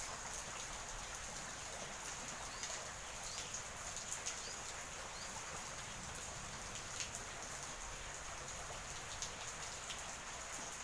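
Steady heavy rain falling, with many individual drops ticking on a hard surface.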